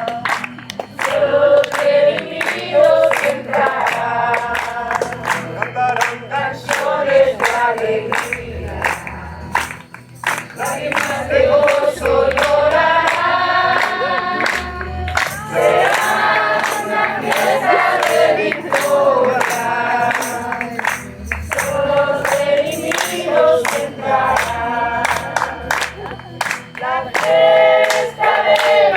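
A group of voices singing a worship song together, with a steady beat of sharp strikes under the singing.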